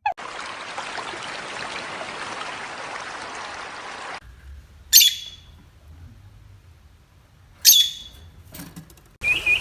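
A steady hiss that cuts off suddenly about four seconds in, then two short, loud, shrill bird squawks, each falling sharply in pitch, about three seconds apart. A run of higher chirps starts near the end.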